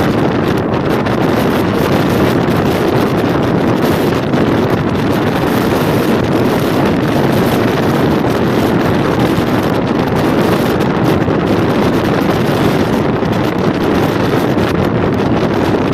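Wind buffeting the microphone over the steady running noise of a MEMU electric multiple-unit train moving at speed.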